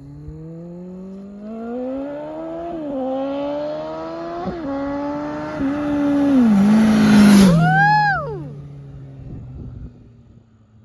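A 2008 Kawasaki Concourse 14's inline-four engine accelerating hard through several gears, its note climbing and dropping back with each upshift as it gets louder. It passes close by about seven to eight seconds in, the pitch falling sharply, then fades away.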